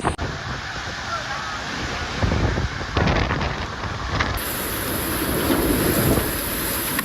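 Storm wind rushing and buffeting the microphone as a dense, steady noise, with abrupt shifts in its character about a quarter-second in and again past the middle.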